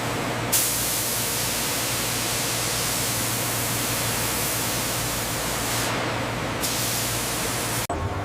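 Steady hiss with a low hum underneath; the hiss breaks off abruptly near the end.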